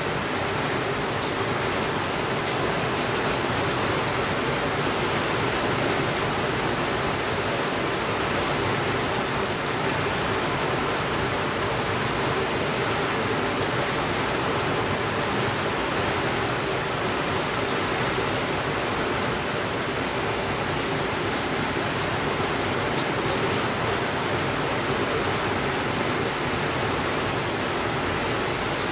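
Steady, even rainfall with no thunder.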